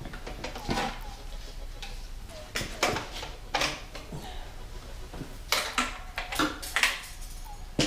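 Irregular clicks and clinks of hand tools and metal engine parts being handled and fitted, with faint birds chirping in the background.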